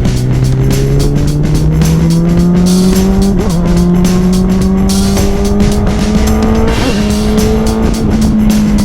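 Kawasaki Ninja ZX-10R inline-four engine pulling hard on track. The revs climb steadily and are broken by quick upshifts about three and a half seconds in and again about seven seconds in, then hold near the end.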